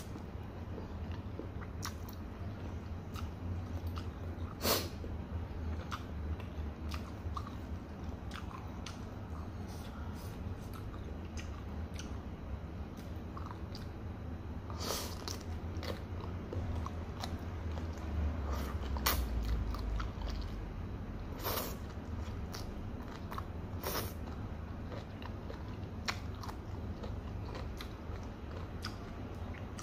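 A person chewing and slurping fried noodles at close range, with wet mouth smacks and short sharp clicks scattered throughout. A steady low hum runs underneath.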